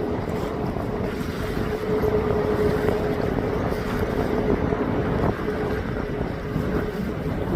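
Airliner engine noise, a steady rumble with a held tone through it, mixed with wind buffeting the microphone.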